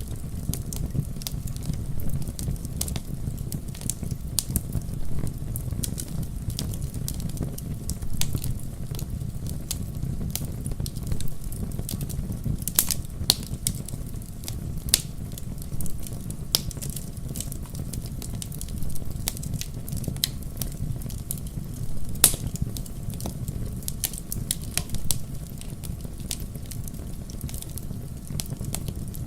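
Fireplace fire crackling, with frequent irregular sharp pops over a steady low rumble. Two pops, about 13 and 22 seconds in, are louder than the rest.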